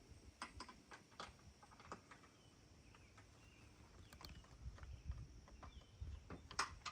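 Near silence broken by a few faint, scattered clicks and taps, the clearest about a second in and near the end.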